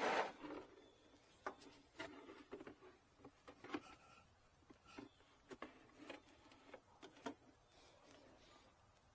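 Faint scattered clicks and light taps at uneven intervals, after a brief rustle at the start: small parts and tools being handled during generator maintenance.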